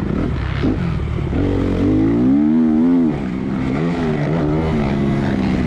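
Dirt bike engine running and revving, its pitch rising and falling, with the strongest rev about two to three seconds in.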